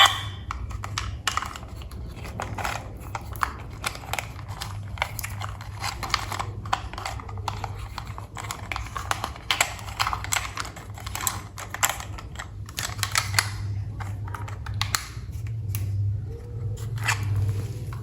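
Rapid, irregular light clicking and tapping of plastic toy train set parts, over a low steady hum.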